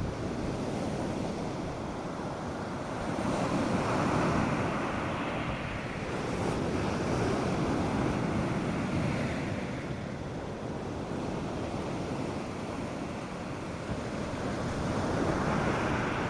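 North Sea surf breaking on a sandy beach: a steady wash of waves that swells several times, about four seconds in, around eight seconds and near the end, with light wind on the microphone.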